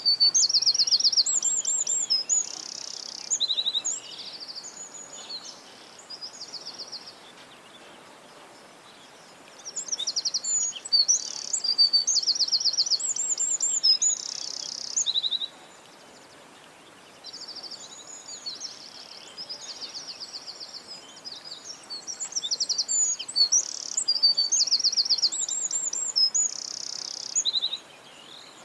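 A songbird singing loud, high-pitched phrases of chirps and rapid trills in three bouts, about ten seconds apart, with softer calls and a faint steady background hiss in between.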